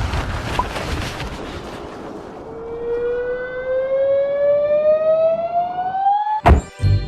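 Cartoon sound effects: a rushing noise, then a single siren-like tone rising steadily in pitch for about four seconds, cut off near the end by a loud crash and a second thud.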